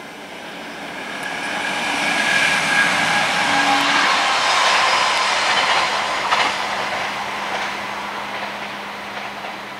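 Electric trains passing on an overhead-wire line: a rushing of wheels on rail that swells over the first few seconds, holds, then fades, with one sharp clack about six and a half seconds in.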